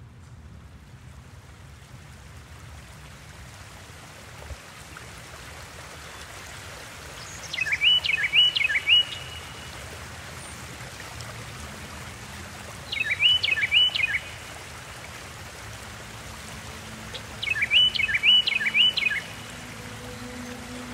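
A songbird repeating a short, loud phrase of four or five quick chirps, three times, about five seconds apart, over a steady hiss; a faint low held tone comes in near the end.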